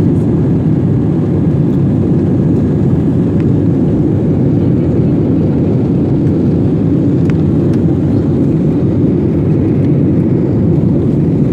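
Steady, loud roar of a jet airliner's engines at takeoff power, heard from inside the passenger cabin as a deep, even rumble.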